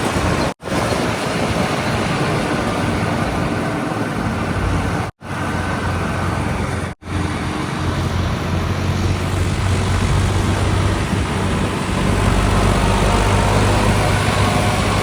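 Diesel engines of heavy machinery running steadily, with a deeper engine rumble building about twelve seconds in. The sound drops out abruptly three times for a split second.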